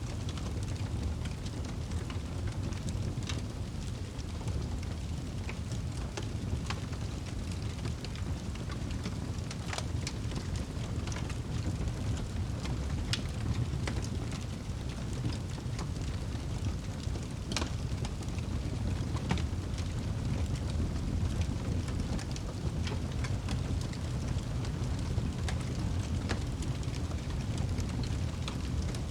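Wood fire burning in a fireplace: a steady low rumble of flames with frequent sharp crackles and pops from the burning logs, one louder pop about two-thirds of the way through.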